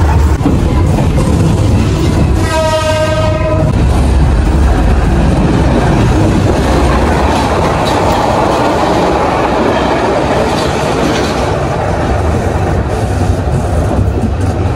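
Passenger train running, with loud wheel-on-rail rumble and rattle coming in through the open window. About two seconds in, a train horn sounds one steady blast of over a second. Around eight seconds in, another train rushes past close alongside and the noise swells.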